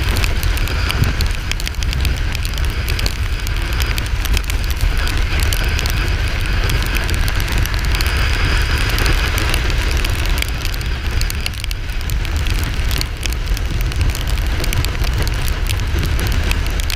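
Heavy wind buffeting on the microphone of a motorcycle at riding speed: a steady, loud rumbling crackle with road noise underneath.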